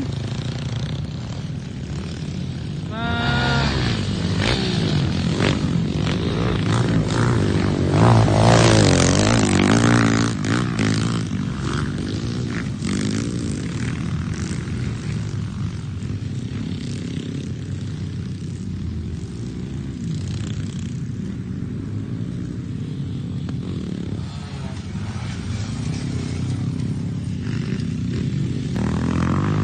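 Dirt bike engines running and revving on a motocross track, their pitch rising and falling as the bikes accelerate. The engines are loudest about eight to ten seconds in.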